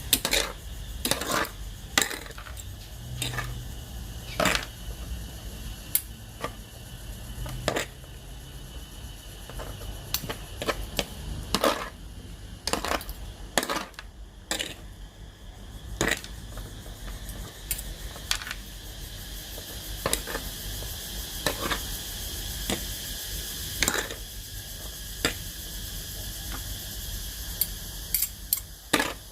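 Utensils clinking and knocking against dishes in an irregular series of sharp clicks, over a steady low hum.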